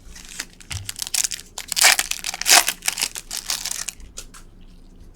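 Crinkling and crackling of a plastic-foil trading-card pack wrapper being handled, loudest in the middle and dying away about a second before the end.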